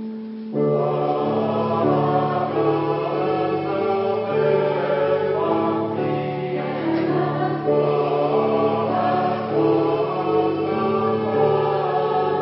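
Polyphonic choir singing in parts. A held chord gives way, about half a second in, to the full choir coming in, followed by shifting sustained chords.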